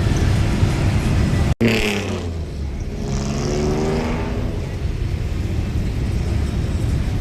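Motor traffic: steady engine rumble, with one vehicle's engine sliding in pitch as it passes or revves, about two seconds in, right after a brief dropout in the sound.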